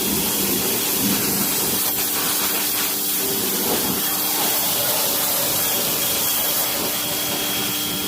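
Sun Joe SPX3000 electric pressure washer running steadily, its motor and pump humming under a continuous spray of water onto a car's engine.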